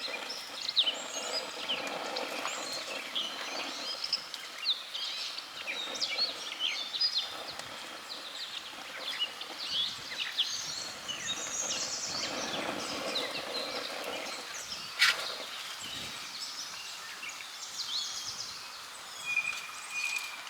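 Songbirds chirping and calling over outdoor background noise, many short overlapping notes with a repeated high trill near the end. A single sharp click about fifteen seconds in.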